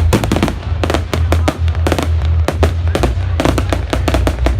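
A fireworks display going off in a dense barrage, many sharp bangs and crackles a second, over loud music with a heavy bass line.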